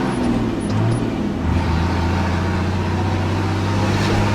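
Truck's engine running under way, its pitch dropping about a second in and holding lower before rising again near the end.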